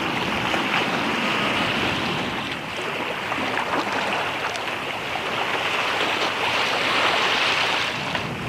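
Seawater washing and splashing, a steady rushing hiss that swells and eases a little.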